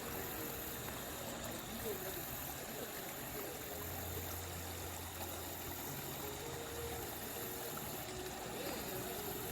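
Creek water running steadily where salmon are swimming upstream. A faint low hum comes in for about two seconds in the middle.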